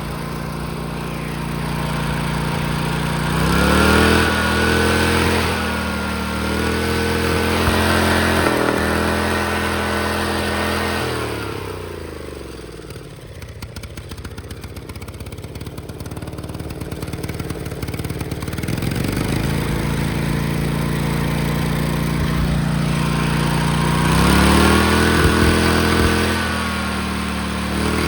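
Tractor engine run hard at full throttle, its revs rising and falling. It drops to a lower speed about twelve seconds in, then climbs back to high revs near the end.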